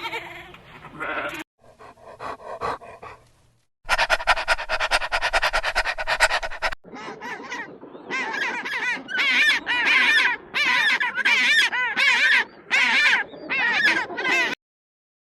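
A series of different animal calls joined one after another. About four seconds in comes a fast, even pulsing buzz lasting about three seconds, followed by a string of about a dozen short, repeated, high calls with wavering pitch.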